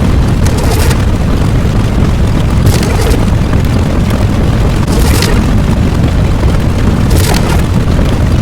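Loud, continuous booming rumble like an explosion sound effect, with a short crackling, hissing flare about every two seconds.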